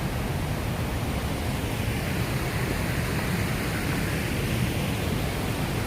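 Steady, even rush of the Snake River's water pouring over the falls.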